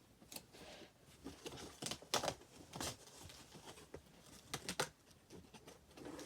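Cardboard being handled: a series of short rustling scrapes and knocks, the loudest about two seconds in and again near five seconds.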